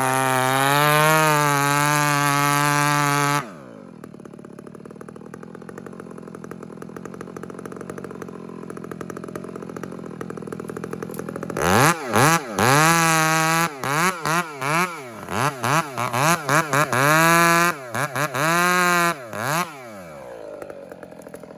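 Two-stroke chainsaw at high revs, dropped abruptly to idle about three seconds in. After several seconds of idling it is revved in a run of short throttle bursts, then settles back to idle near the end.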